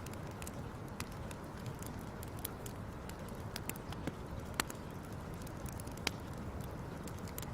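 Fire crackling: a steady low rumble with scattered sharp pops, two louder ones about four and a half and six seconds in.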